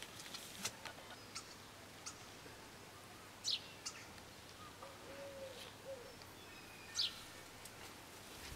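Songbirds chirping: a few sharp, high chirps that sweep downward, one about three and a half seconds in and another about seven seconds in, with faint thin whistles and a short low call between them, over quiet outdoor background hiss.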